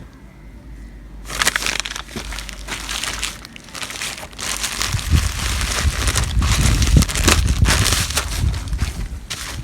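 Packaging being handled and opened, crinkling and rustling, with low bumps and knocks from about halfway through.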